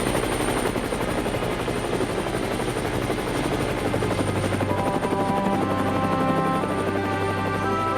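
Helicopter in flight, its rotor and engine running with a steady fast pulsing. About halfway through, background music fades in over it.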